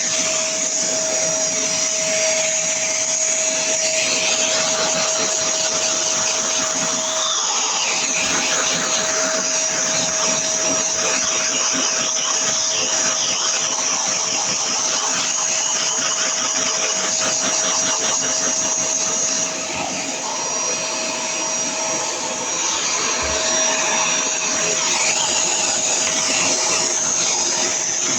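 Vacuum cleaner running steadily: a rush of air with a steady whine over it. The sound dips a little for a few seconds about two-thirds of the way through.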